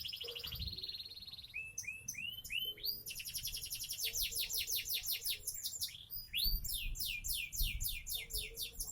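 Seven-month-old domestic canary singing: fast rolling trills of repeated, quickly falling notes. The trills are broken by a few separate rising whistled notes about two seconds in and again a little past six seconds.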